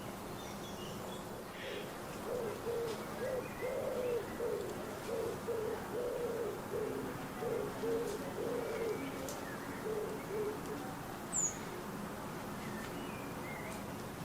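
A pigeon cooing: a run of low, repeated coo notes, about two a second, that lasts roughly eight seconds with short breaks between phrases. A small bird gives a few faint chirps, and one sharp high chirp comes near the end.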